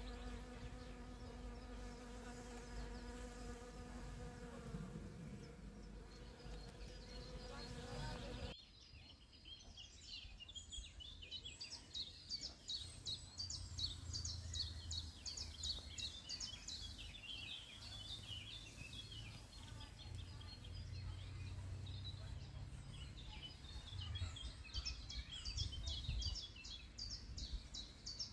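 A flying insect buzzing close by, a steady hum that cuts off abruptly about eight seconds in. After that, small songbirds sing with quick, high twittering phrases.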